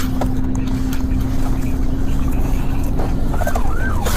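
Police patrol car driving at speed: steady road and engine rumble with a low hum. About three and a half seconds in, a siren starts up in a fast rising-and-falling yelp.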